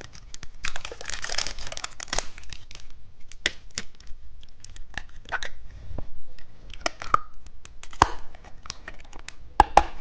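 Plastic wrapper of a microphone-shaped candy being torn open and crinkled by hand: a run of rips and crackles with scattered sharp snaps, a few of them louder near the end.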